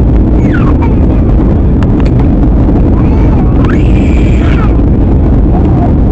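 Steady, loud low rumble of an airliner cabin in flight, with faint voices in the background.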